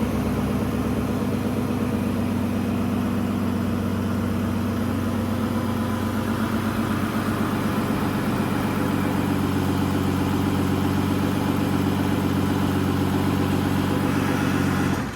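2010 Aston Martin DBS's V12 engine idling steadily, still warming up after a cold start.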